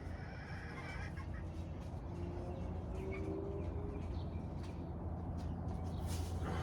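Faint bird calls, like fowl clucking, over a steady low hum.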